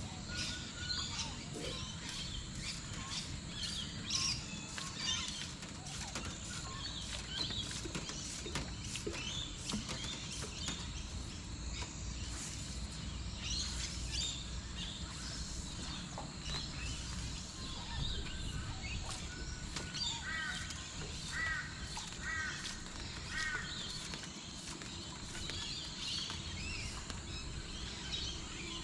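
Outdoor bird chorus: many birds calling and chirping, with crow-like caws and a run of four evenly spaced calls about two-thirds of the way through, over a steady low background noise.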